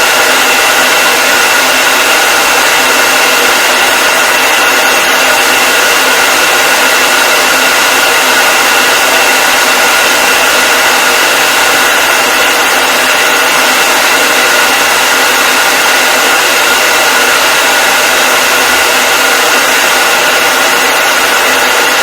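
Hair dryer running steadily: a constant airy hiss with a fixed high whine from the fan motor, unchanging.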